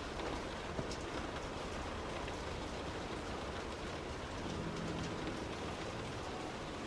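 Heavy rain pelting a moving car, over steady tyre and road noise on the wet road.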